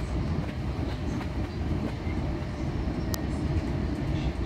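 Long Island Rail Road electric commuter train running at speed, heard from inside the passenger car: a steady low rumble of wheels on rail, with a single sharp click about three seconds in.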